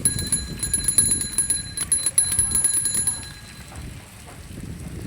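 Bicycle bell rung rapidly and continuously, a fast run of strikes with a bright ringing tone, stopping about three seconds in, over low rumbling noise.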